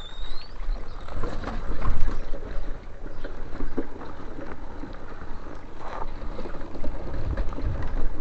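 Uneven wind rumble on the microphone with scattered knocks and rustling.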